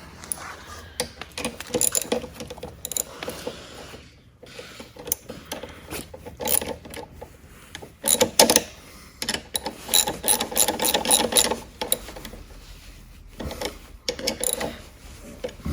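Hand ratchet with a 10 mm socket clicking in repeated bursts of quick strokes, with short pauses between, as it tightens the bolts of an ATV's handlebar throttle housing.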